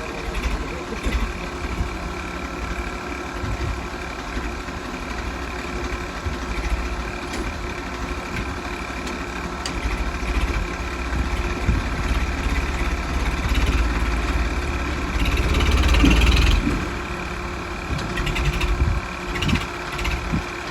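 International DI 740 tractor's diesel engine idling steadily, swelling louder for a second or so about three-quarters of the way through.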